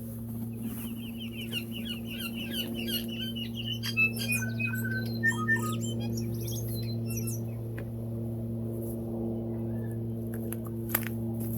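A small plane's engine drones steadily throughout, while tui sing in a nearby tree. The birdsong starts with a fast run of chirps, then turns into varied clear whistles and clicks for several seconds.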